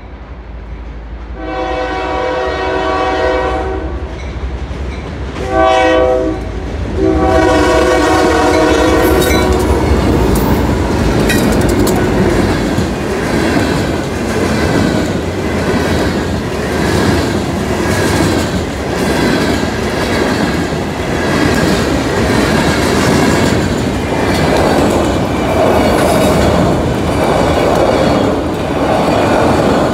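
Train horn sounding in several blasts over the first ten seconds, the last one long, as the train reaches the grade crossing. The train then rolls past close by with a steady rumble and a rhythmic clatter of wheels over the rail joints.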